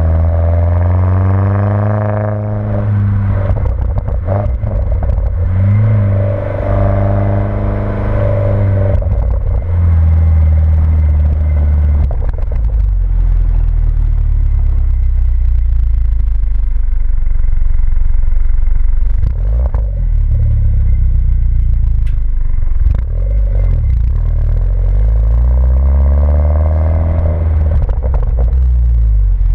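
Mini Cooper S engine and modified exhaust while driving: pitch swings down and up with the revs a few times, with a steady low drone in between while cruising.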